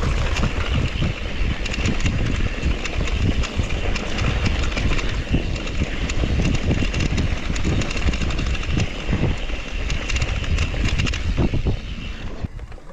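Mountain bike rattling and knocking over a rough dirt trail at speed, with wind rushing on the camera microphone; the noise drops off sharply near the end.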